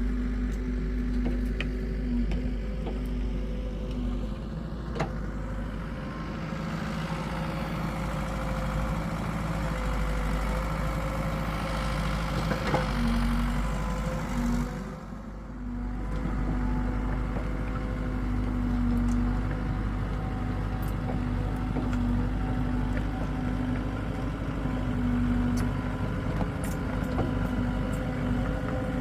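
Hitachi EX75UR excavator's diesel engine running steadily. In the middle a rushing hiss swells over it for several seconds, and the sound dips briefly just after.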